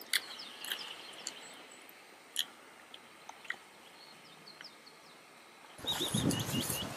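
Faint, scattered bird chirps and a few soft clicks over a quiet outdoor background. About six seconds in, a louder low rumbling noise starts suddenly, along with footsteps on a grassy path.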